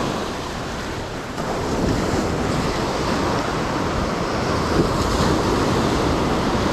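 Ocean surf washing up a beach, with wind buffeting the microphone; the noise swells a little about one and a half seconds in.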